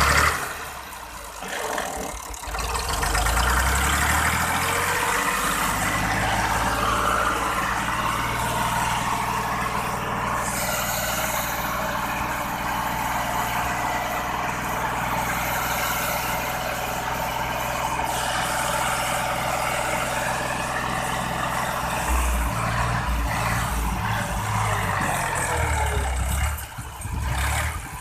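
Tractor engine running steadily after starting, turning uneven and choppy for a few seconds near the end before it quietens.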